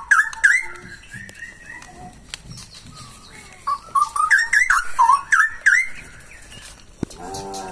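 Male straw-headed bulbul singing loud, rapid phrases of liquid whistled notes: one burst right at the start and another about three and a half seconds in, lasting about two seconds. A lower call with several stacked tones comes near the end.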